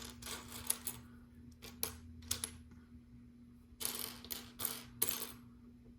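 Small plastic LEGO pieces clicking and clattering as a hand sifts through them looking for a piece. The clicks come in irregular bunches and are loudest near the end.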